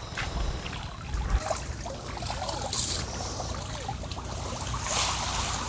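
Water trickling and splashing off a fishing net as it is hauled up out of the water, in uneven surges.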